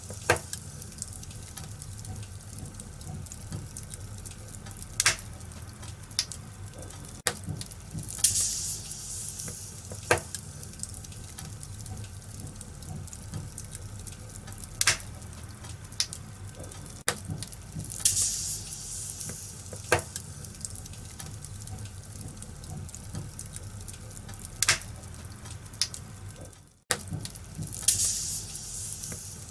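Wood fire crackling in a fireplace: scattered sharp pops over a steady low rush, with a hissing surge about every ten seconds. The sound cuts out briefly a few seconds before the end.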